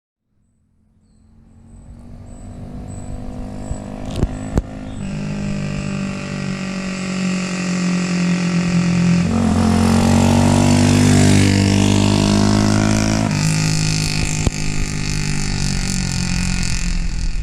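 Ice Bear Champion CT70-clone pit bike's single-cylinder four-stroke engine running through an aftermarket exhaust. It fades in, picks up revs about nine seconds in, settles back about thirteen seconds in, and cuts off suddenly at the end.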